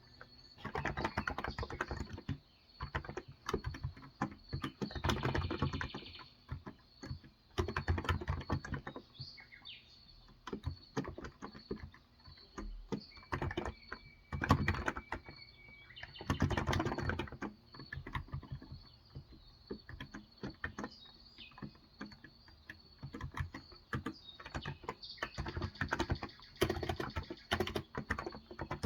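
Typing on a Cox Endeavor tenkeyless keyboard with electro-capacitive (Topre-style) 35 g switches: bursts of rapid keystrokes with short pauses between them. Birds chirp faintly in the background.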